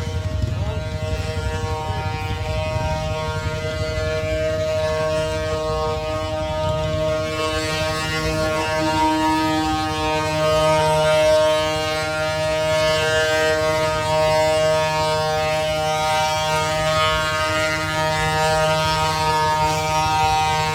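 Wooden ox-cart axles singing: the continuous, siren-like squeal of the turning wooden axle rubbing in its wooden bearings as the loaded carts roll, with a low rumble underneath. The drone holds steady with a slight waver in pitch and swells a little around the middle.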